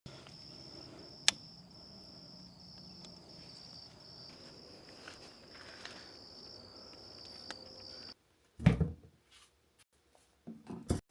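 Night insects such as crickets chirring in a steady high-pitched chorus, with one sharp click about a second in. The chorus cuts off abruptly about eight seconds in, and a few loud thumps follow near the end.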